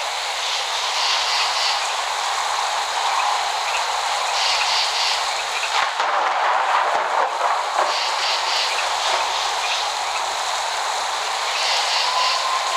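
Steady downpour of rain, an even hiss with bits of patter and crackle and a denser stretch about halfway through. No thunder rumble.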